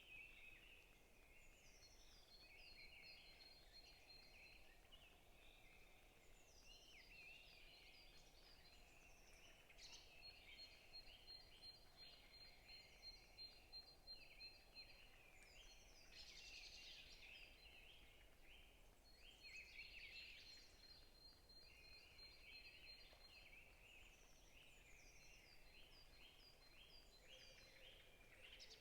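Faint chorus of small forest birds chirping and calling over one another, with a rapid, even trill that comes back several times.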